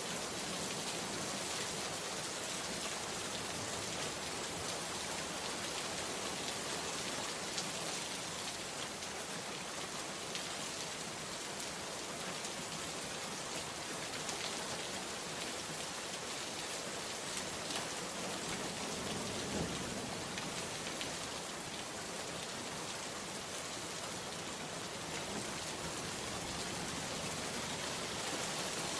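Steady rain falling, a dense even hiss with scattered drops ticking on a surface.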